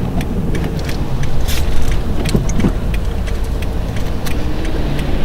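Car engine and road noise heard from inside the cabin while driving, a steady low rumble with scattered small clicks and rattles.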